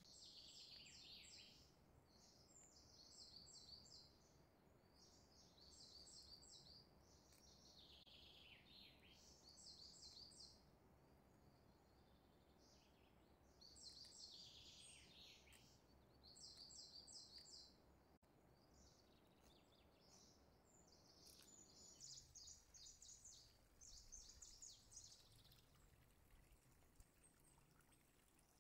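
Faint birdsong: short bursts of high chirps and trills repeating every second or two, some phrases sliding down in pitch. A faint low background hum lies underneath.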